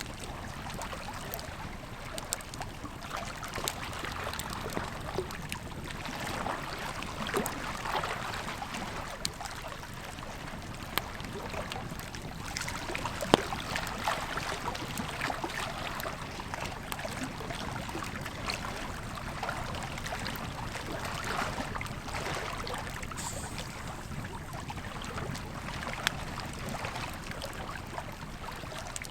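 Campfire crackling with scattered sharp pops over the steady rush of a flowing river; one pop about halfway through is louder than the rest.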